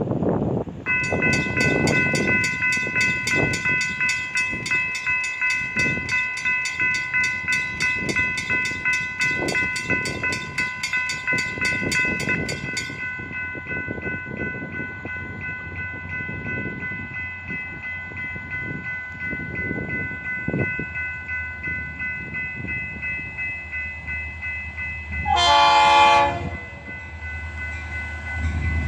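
Grade-crossing warning bell ringing steadily as the train approaches. Near the end, a short blast from the lead locomotive's Leslie RS3L three-chime horn (FEC GP40-2 #704).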